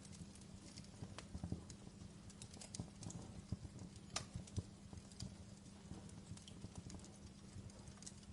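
Wood fire in a fireplace crackling: irregular pops and snaps, one sharper snap about halfway through, over the low rumble of burning logs and a faint steady hum.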